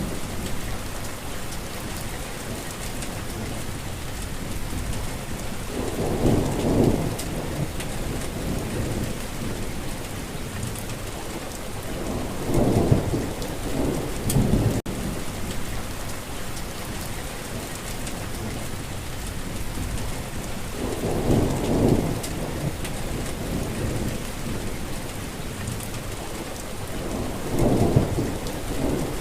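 Steady heavy rain, with low rolls of thunder swelling up and fading away four times. There is a momentary dropout about halfway.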